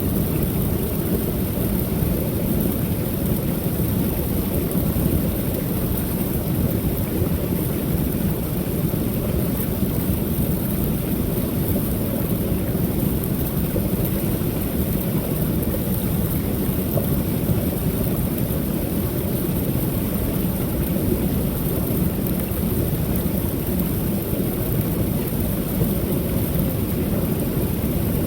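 Waterfall on a creek, water pouring over the falls in a steady, even rush with most of its weight low and deep.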